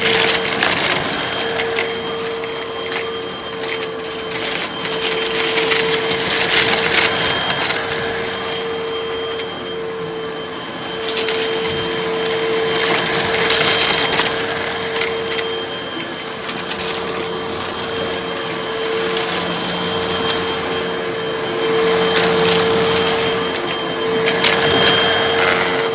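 Hoover vacuum cleaner running with a steady motor whine while sucking up small crunchy debris, which crackles and rattles through it in repeated surges.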